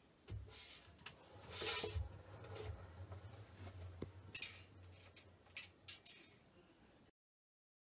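Faint handling noises: scattered small clicks and short rustles over a low hum. The sound cuts off abruptly to silence about seven seconds in.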